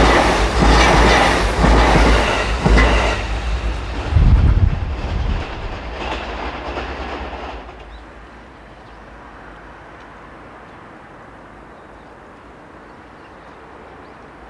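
Freight train passing: wagon wheels clacking over rail joints in a regular rhythm, about one and a half beats a second, then a heavier low knock about four seconds in. The sound fades away by about eight seconds in as the train goes by, leaving a faint steady background.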